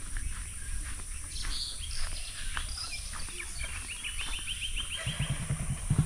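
Small birds chirping, with a quick trill of about ten notes around four seconds in. Near the end an engine starts up close by and grows louder.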